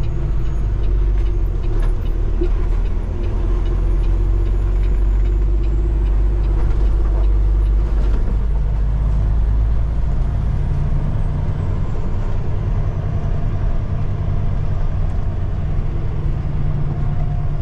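Peterbilt 389 semi truck's diesel engine running as the truck creeps through a parking lot, a steady low rumble whose note changes about eight seconds in.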